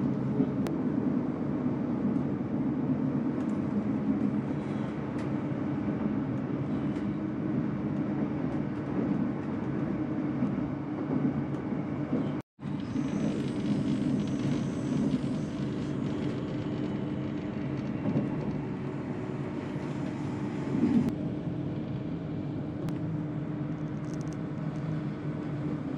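A moving train's running noise: a steady low rumble with rail clatter. It cuts out for an instant about halfway through, then carries on with more hiss.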